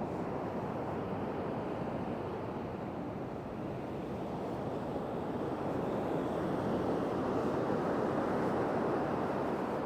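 Ocean surf washing onto the beach, a steady rush that swells a little past the middle.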